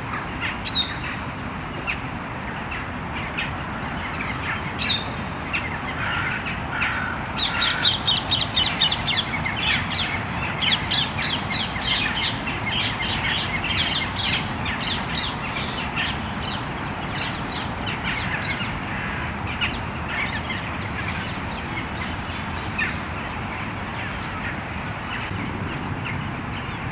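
Birds calling with harsh squawks and caws, coming thick and fast for several seconds in the middle, over a steady low background hum.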